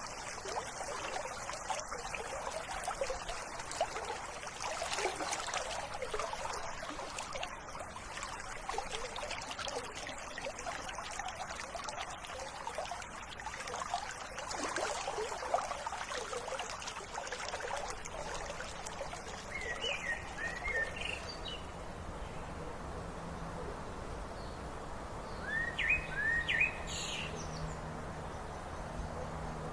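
Stream water trickling and pouring. About two-thirds in, the water fades and birds chirp in two short bursts of calls over a low steady hum.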